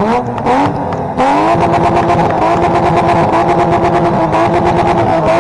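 Car engine revved: a couple of quick throttle blips, then a sharp climb about a second in to high revs held steady with a rasping exhaust.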